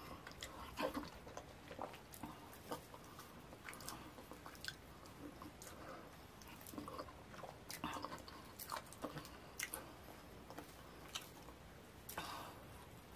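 Close-miked wet chewing and mouth smacks of someone eating fufu with slimy ogbono soup: irregular sticky clicks and squelches. The fingers squish the fufu as pieces are pinched off and dipped in the soup.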